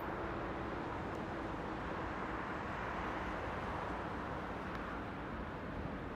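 Rhaetian Railway train pulling away down the line, its faint steady hum fading out a couple of seconds in, leaving a steady rushing noise.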